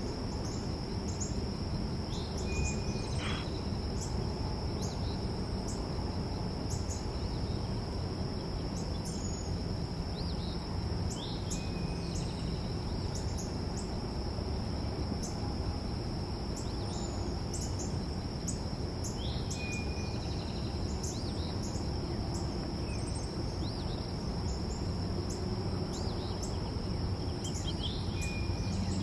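Insects, likely crickets, trilling as a continuous high whine, with a few short, falling bird chirps now and then over a steady low background rumble.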